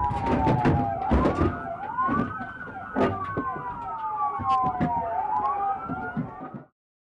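Two police sirens wailing over each other, each sliding slowly up and down. There are several sharp bangs and clatter in the first second and a half and another at about 3 s. The sound cuts off abruptly near the end.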